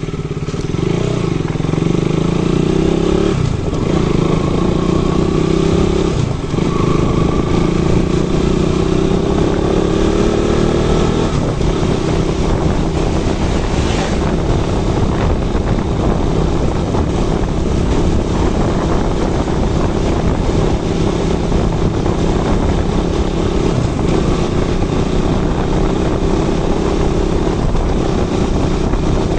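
KTM RC 200's single-cylinder engine running as the bike is ridden, its pitch rising and easing slightly, with a couple of short thuds a few seconds in.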